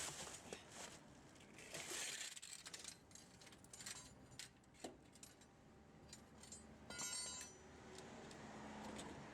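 Faint scattered clicks and metal clinks, with one brighter clink that rings briefly about seven seconds in: small metal objects being handled.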